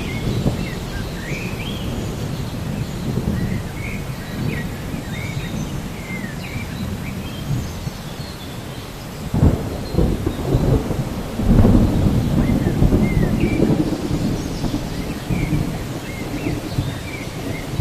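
Thunderstorm ambience: steady rain with rolling thunder that swells about nine and a half seconds in and again around twelve seconds. Short high chirps come and go over it.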